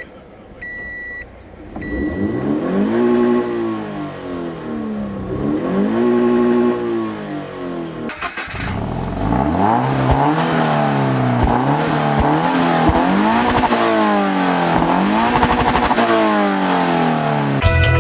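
A car's chime beeps once near the start, then a Scion's four-cylinder engine is revved in neutral, its pitch rising and falling again and again. A cut about eight seconds in leads into another run of repeated revs, and rock music starts right at the end.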